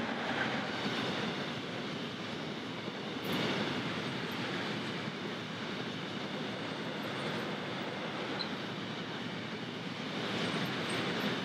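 A freight train of tank wagons rolling past, with a steady rumbling rattle of wheels on rail. It swells louder about three seconds in and again near the end as the last wagons go by.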